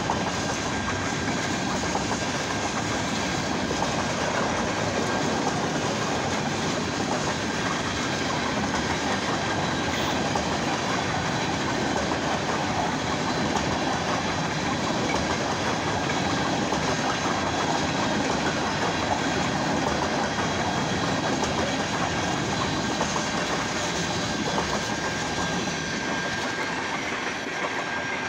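Freight train rolling through a grade crossing: a steady rumble of cars passing on the rails, easing slightly near the end.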